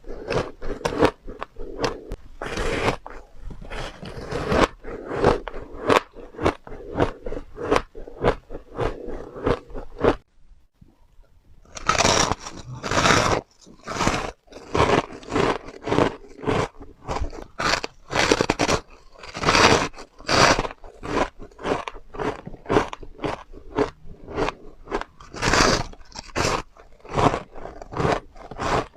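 Refrozen powdery ice being bitten and chewed in big, soft, crunchy mouthfuls, as a rapid run of crunches. The crunching stops for about two seconds a third of the way in, then starts again.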